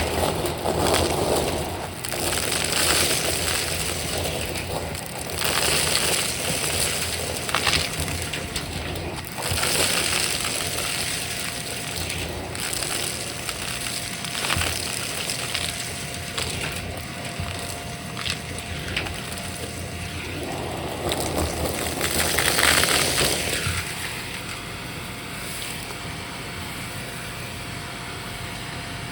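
Vacuum cleaner sucking up crunchy debris, with a dense crackling crunch full of small clicks. The crunching surges louder a few times, most strongly about three-quarters of the way in, then eases to a steadier run with a thin steady motor whine underneath.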